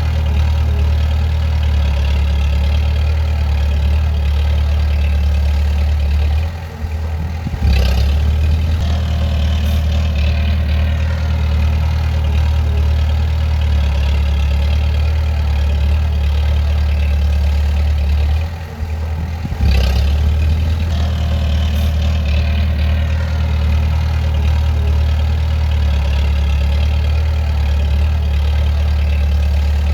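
Bulldozer diesel engine running steadily with a deep drone. Twice the sound drops for about a second, then comes back with a sharp clank.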